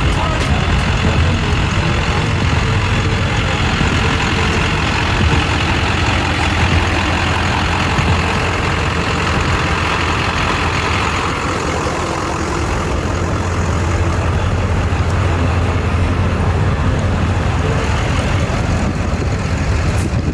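Truck engine running steadily with a low, even rumble.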